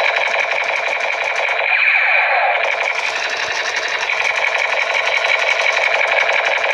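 Loud, looping electronic sound with a very fast rattling pulse, held in the middle pitches with little bass.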